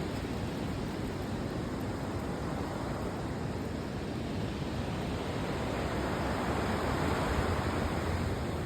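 River water rushing in a steady hiss, growing a little louder in the second half.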